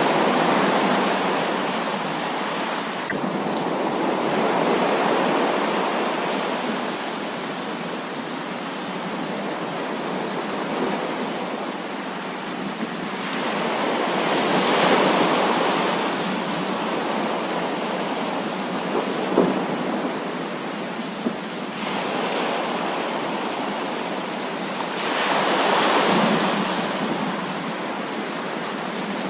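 Heavy rain falling in a steady hiss through a thunderstorm. Slow swells of rolling thunder come at the start, about halfway and near the end, with a couple of brief sharp cracks in between.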